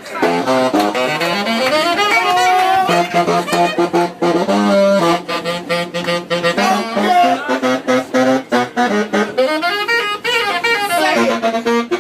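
Saxophone playing a fast jazz line of quick rising and falling runs, with lower held notes underneath.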